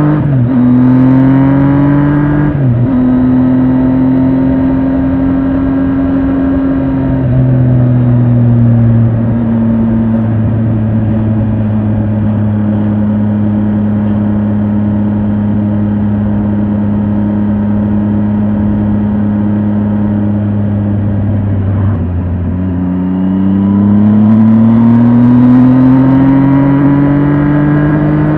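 Triumph Tiger 800 XRT's inline three-cylinder engine on the move. It pulls up in pitch with two quick drops for upshifts in the first several seconds, runs at a steady speed through the middle, then dips and climbs again as it accelerates near the end.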